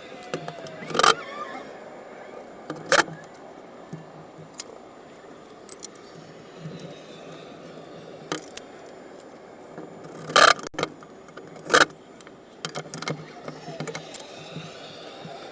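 Work noise of metal tools and parts being handled: scattered sharp knocks and metallic clinks, with loud strikes about a second in, at three seconds, and twice more near the end.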